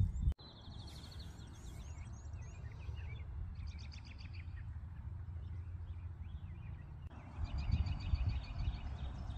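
Songbirds chirping, with a rapid trill near the start and again near the end, over a steady low rumble of wind on the microphone.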